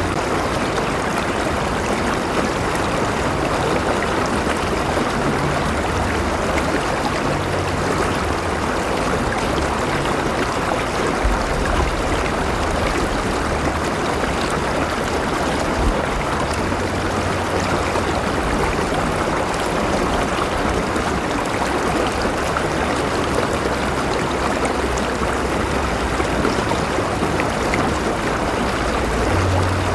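River water flowing steadily over rocks, a continuous rushing with trickling and gurgling, and a low rumble underneath.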